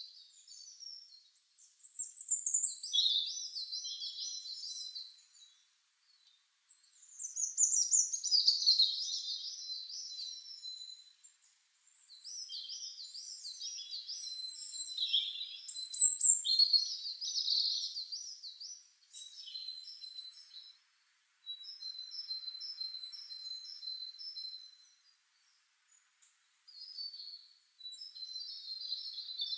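A songbird singing long phrases of rapid, high-pitched up-and-down trills mixed with held whistled notes, about six phrases of a few seconds each with short pauses between.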